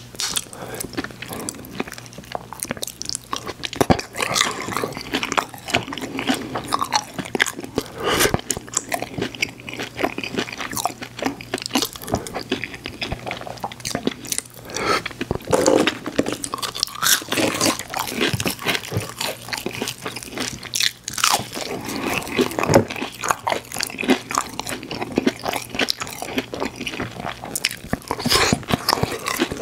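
Close-miked eating of McDonald's fries and a chicken nugget: a continuous run of irregular crunches, bites and chewing.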